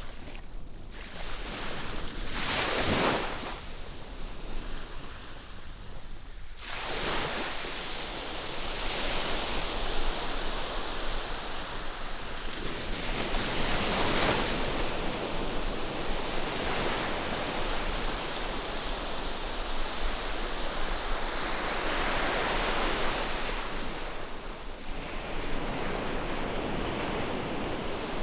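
Ocean surf: waves rushing in and breaking, the wash swelling and fading several times.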